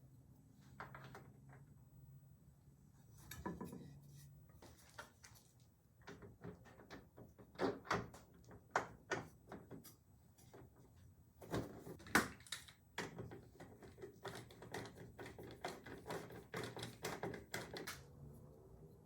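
Hand work with screws, spacers and a wooden 2x4 French cleat: irregular light clicks and knocks, sparse at first, then coming thick and fast through the middle and latter part.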